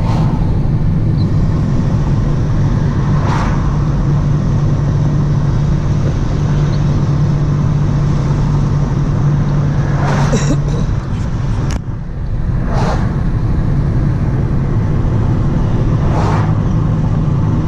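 Car running on the road, heard from inside the cabin as a steady low engine and road hum. A few brief swishes come a few seconds apart, and there is one sharp click about two-thirds of the way through.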